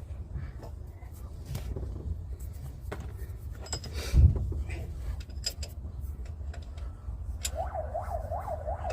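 A steady low rumble with scattered clicks and one loud thump about four seconds in. Near the end a siren-like warbling tone starts, rising and falling about four times a second.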